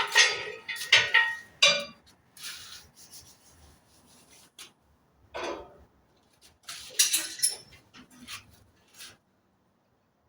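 Metal clinking and rattling in several short bursts, most of them in the first two seconds and again from about seven to nine seconds in.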